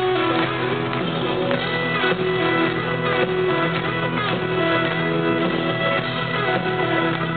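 Live country band playing an instrumental intro at full volume, with steady sustained notes and no singing.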